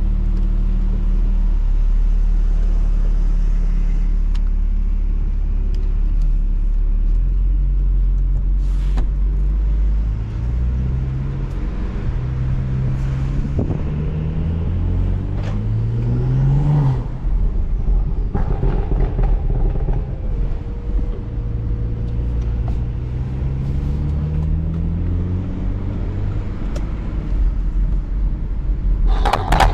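BMW 335i's N55 turbocharged 3.0-litre inline-six heard through a microphone at the exhaust: steady low running at first, then rising in pitch as it accelerates through the gears, twice, from about ten seconds in. A burst of sharp clicks near the end.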